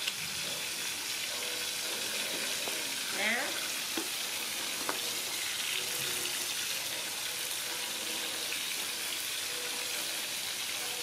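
Horse mackerel frying in hot oil in a wok, a steady sizzling hiss throughout. About three seconds in, a short rising squeak cuts through.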